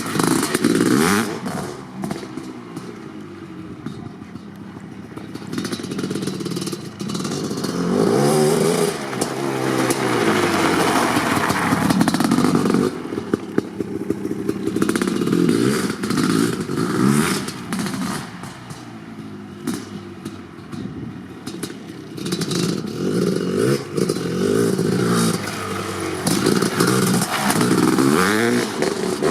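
Kawasaki KX500's big single-cylinder two-stroke engine, fitted with an FMF Gnarly pipe, revving up and dropping back again and again, its pitch rising and falling.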